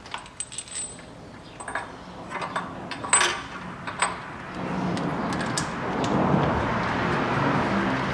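Light metallic clinks and clicks of hand tools and bolts on the camshaft gears. From about halfway through, a steady rushing noise comes in under them.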